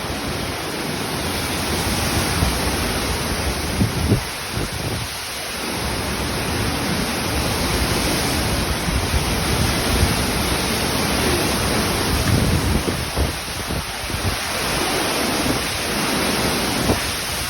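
Hurricane-force wind gusting with heavy rain: a dense, steady rush with a rumble in the bass, swelling and easing with the gusts, buffeting the microphone.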